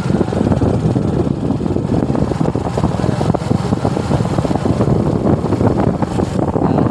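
Suzuki Gixxer motorcycle running on the road, its engine note mixed with steady wind and road noise.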